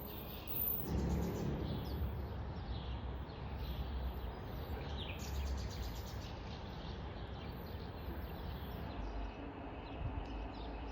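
Steady background noise with a low rumble, and a few faint bird chirps scattered through it.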